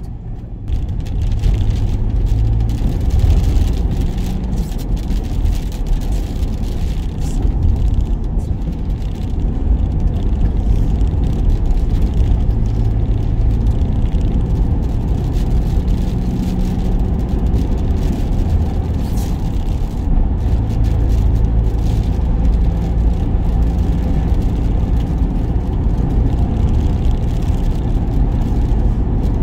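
Work van on the move, heard from inside the cab: a steady, loud engine and road rumble, with the engine note shifting now and then.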